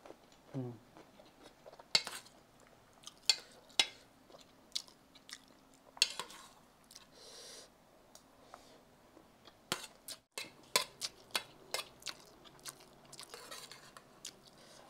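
A person chewing a mouthful of fried rice with mushrooms and rice vermicelli, close to the microphone, with a metal spoon clinking against the bowl now and then. There is a quicker run of clinks about ten to twelve seconds in.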